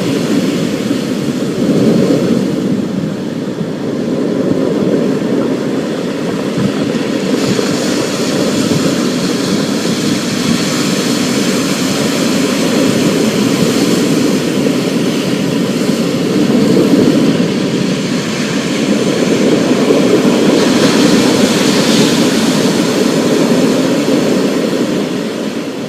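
Thunderstorm: a long, low rolling rumble of thunder that swells and eases over a steady hiss of rain.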